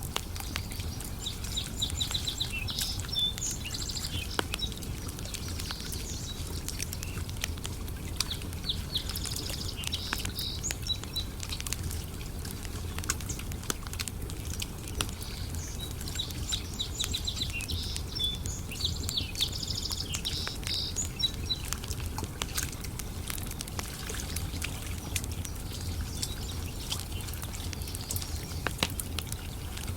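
Wood campfire crackling with frequent sharp pops over a steady low rumble. A songbird sings rapid trilled phrases three times: about a second in, around eight seconds, and from about fifteen to twenty seconds.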